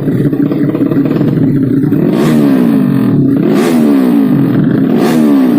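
Racing underbone motorcycles with tuned 200cc engines running at high revs; from about two seconds in the engine pitch sweeps up and down several times.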